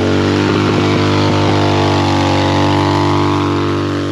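Motorcycle engine running at a steady speed, its pitch holding level apart from a few brief wobbles in the first second.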